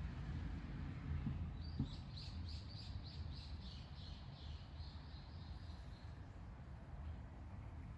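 A bird calling: a quick run of about twenty high notes, some five a second, that falls slightly in pitch and fades over a few seconds, above a steady low rumble.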